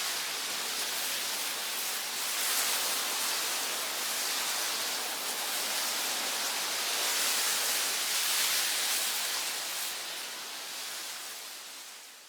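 Steady rushing, hissing water noise with no distinct events, fading out over the last couple of seconds.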